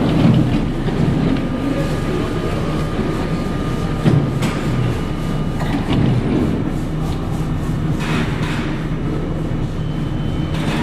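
NYC Subway Budd R32 train running on the track: a steady rumble and hum of the car, with a sharp clack from the rails about four seconds in.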